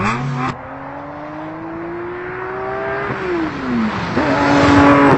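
Car engine accelerating, its pitch climbing steadily, dropping about three seconds in at a gear change, then climbing again. A rush of tyre noise on the dirt road makes the end the loudest part.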